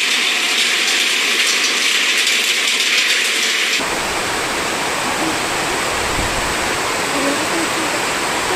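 Heavy rain falling: a steady hiss of downpour. About four seconds in, the sound changes abruptly to a fuller, deeper rushing rain noise, as from a cut to another recording.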